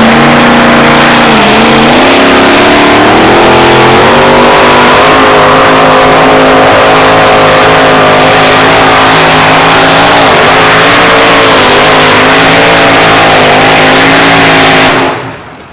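A 646-cubic-inch pulling-truck engine run at full throttle, very loud. The engine note dips briefly, then climbs and holds high with a slight waver as the truck pulls the sled. The sound drops off abruptly near the end.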